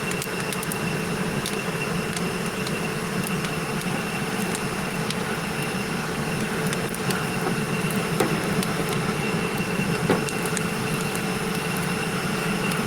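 Wood-fired forge running during a blade heat: a steady machine-like hum throughout, with scattered sharp crackles and pops from the burning wood.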